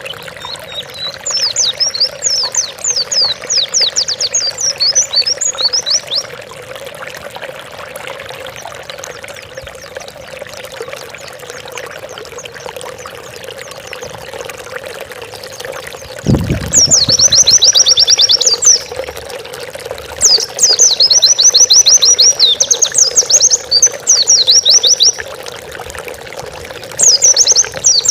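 Pleci (white-eye) singing in rapid, high trilling bursts of a few seconds each, four bursts with pauses between, over a steady background of running water and a low hum. A brief low thump about 16 seconds in, just before the second burst.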